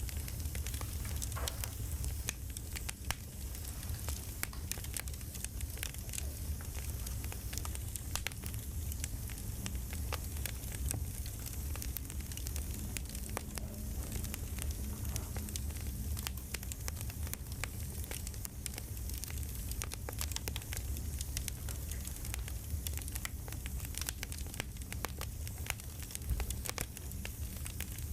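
Campfire crackling: a steady low rumble of the flames under many small, irregular pops and snaps.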